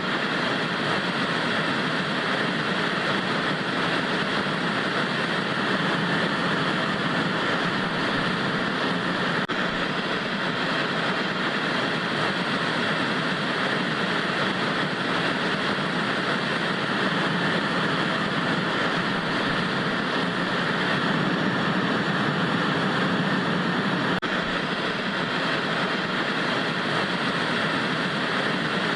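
TV static white noise: a steady, even hiss that does not change.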